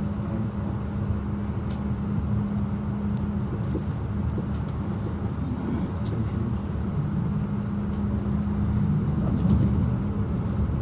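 Passenger train running, heard from inside the carriage: a steady rolling rumble with a steady low hum underneath.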